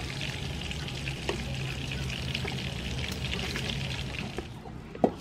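Pork ribs sizzling and crackling as they fry in hot oil, a dense steady crackle that stops about four and a half seconds in. One sharp knock follows near the end.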